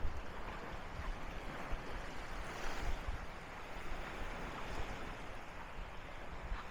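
Sea surf washing steadily onto a sandy beach, with gusts of wind buffeting the microphone.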